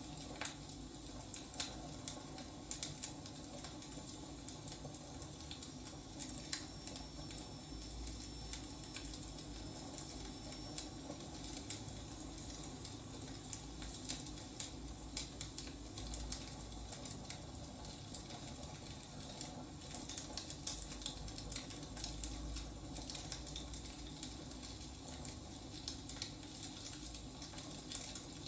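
Wood fire burning, with irregular crackles and snaps of the burning logs over a low steady rumble of the flames.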